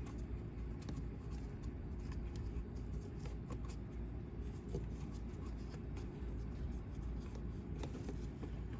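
Faint rustling, scraping and light clicks of hands working a blower motor up into its plastic housing under a truck's dashboard, feeling for its locating tab, over a steady low hum.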